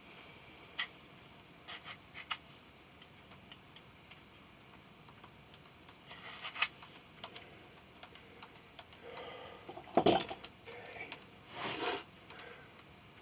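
Scattered light clicks and taps of small metal tools and parts being handled on a workbench, with a louder clatter about ten seconds in and a brief rustling scrape near the end.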